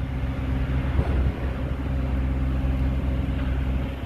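A steady low engine hum, like a motor vehicle running nearby, over a rushing background noise.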